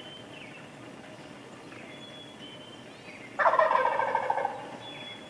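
A wild turkey tom gobbles once, about three seconds in: a loud, fast rattling call that trails off after about a second. Songbirds chirp faintly in the background.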